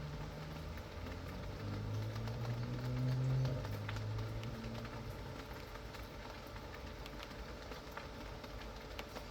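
Steady rain with scattered drops and drips. A low rumble swells about two seconds in, is loudest around three and a half seconds, and fades out by about five seconds.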